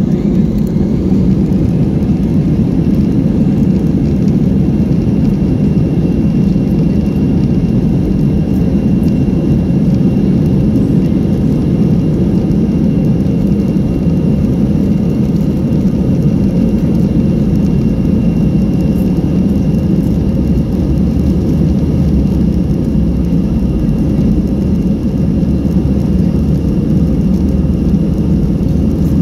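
Airbus A319's CFM56 jet engines and airflow heard from inside the cabin: a loud, steady deep rush with a faint high whine that rises over the first couple of seconds and then holds steady.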